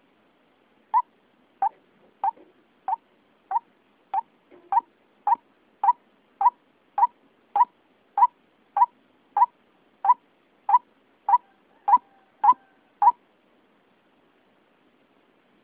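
White-breasted waterhen (ruak-ruak) calling: a steady series of about twenty short, sharp notes, roughly three every two seconds, which stops about two seconds before the end. It is a recorded lure call used to draw the birds in.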